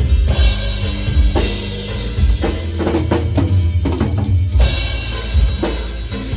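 Heavy metal drum kit playing: kick drum and snare hits over low sustained bass notes, with a quick run of hits, like a drum fill, in the middle.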